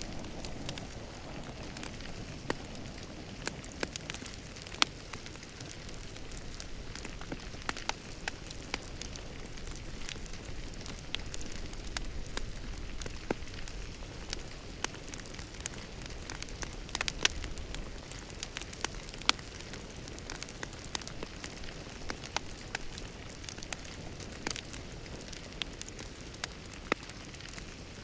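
Wood fire crackling in a fireplace: a steady low hiss and rumble with frequent sharp, irregular pops and snaps.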